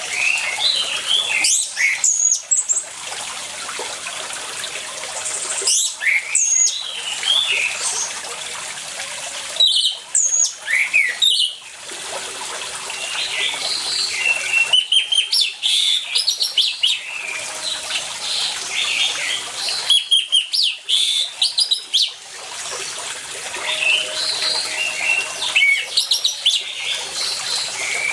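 Orange-headed thrush singing in clusters of quick, varied whistled phrases every few seconds, over the steady sound of running water.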